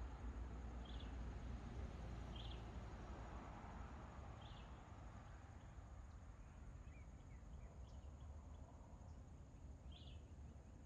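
Faint outdoor ambience with a steady low rumble, and short high chirps from a small animal repeating about every two seconds.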